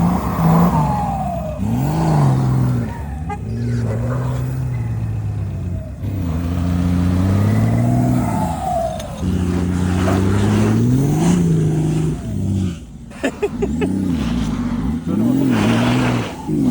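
Car engine revving again and again, its pitch climbing and dropping with each press of the throttle, with a few sharp knocks about thirteen seconds in.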